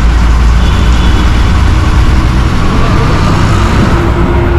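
City bus's engine running with road noise, heard from inside the passenger cabin as a loud, steady low rumble.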